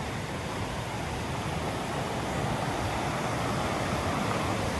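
Steady rushing of falling water, growing slightly louder.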